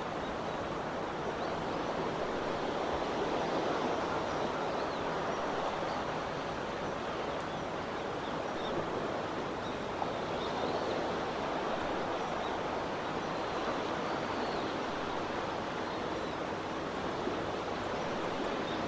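Steady, even rush of sea water with no distinct wave surges, with faint short high chirps now and then above it.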